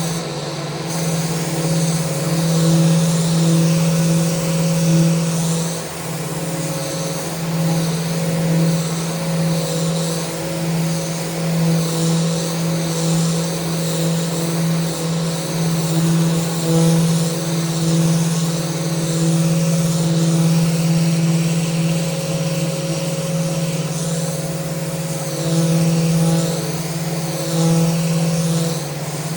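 Electric power sander running steadily against a wooden handrail: a constant motor hum under a hiss that swells and fades as the pad moves along the rail.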